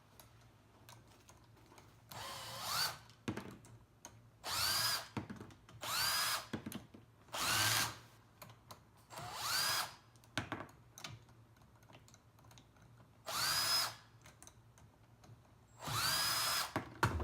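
Power drill driving a socket on an extension to loosen tight bolts on a semi-hermetic refrigeration compressor. The trigger is pulled in seven short bursts, and the motor winds up in pitch at the start of each one.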